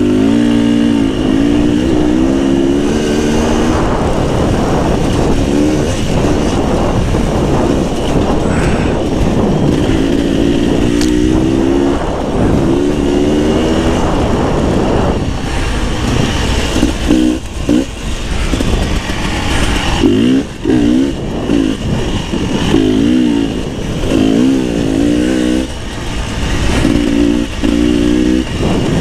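Beta 300 RR two-stroke enduro motorcycle engine running under load, its pitch rising and falling with the throttle. The revs run fairly even at first, then turn choppier in the second half with repeated short blips and drops.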